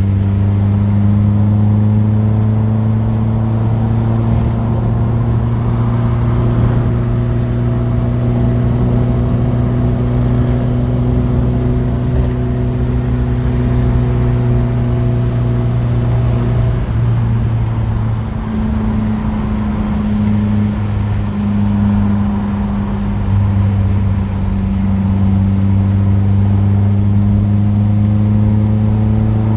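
Classic car engine heard from inside the cabin while driving, a steady drone that slowly rises and falls with road speed. The engine note drops for a few seconds a little past halfway, then picks up again.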